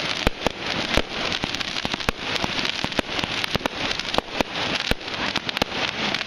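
Fireworks crackling: a dense, continuous crackle with many sharp pops scattered irregularly through it.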